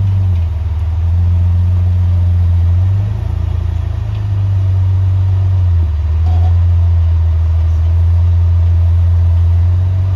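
Jeep engine running steadily on an off-road trail. Its pitch steps up a little about three seconds in and drops back about six seconds in.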